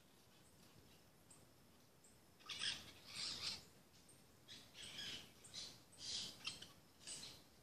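Parrots calling: a run of about seven short, harsh squawks in quick succession, starting about two and a half seconds in.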